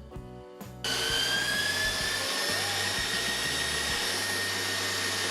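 Electric mixer whisking egg whites and sugar for meringue: after a brief lull its motor starts about a second in with a rising whine, then runs steadily.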